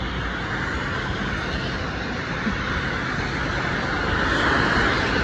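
Heavy rain with cars passing on the wet road, a steady hiss of rain and tyres on water; one car swells louder about four seconds in.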